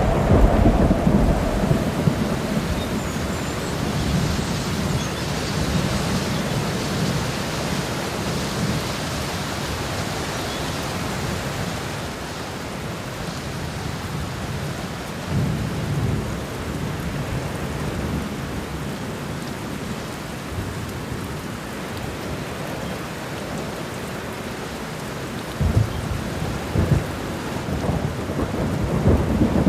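Steady hiss of rain with low rumbles of thunder, one about halfway through and several close together near the end.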